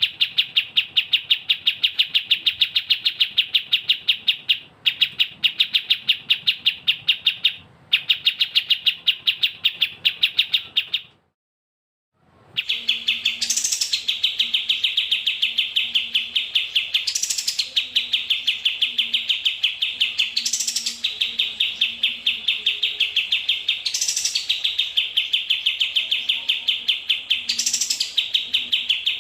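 A songbird chirping in a rapid, even run of sharp notes, broken by a silence of about a second and a half near the middle. In the second half a harsher, higher note recurs every three to four seconds over the chirping.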